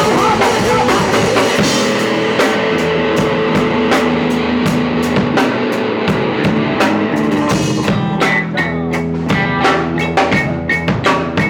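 Punk rock band playing live: electric guitar over a drum kit keeping a steady beat.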